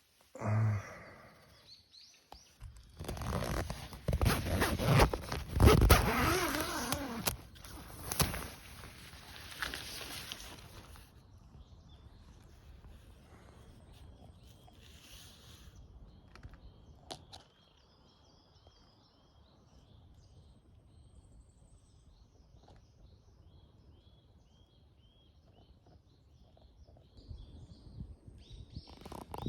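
Several seconds of loud rustling and scraping, like fabric or gear being handled. Then, quieter, a bird calls over and over in short repeated chirps.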